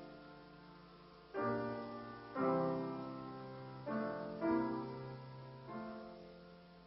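Piano playing a slow, quiet introduction: five chords struck a second or so apart, each left to ring and fade.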